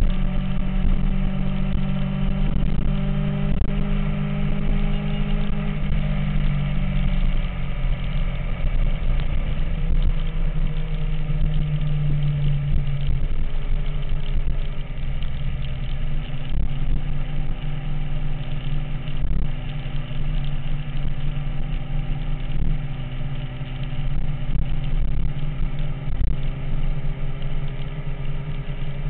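MV Agusta F4 motorcycle's inline-four engine running at fairly steady revs, the pitch easing down slightly a couple of times.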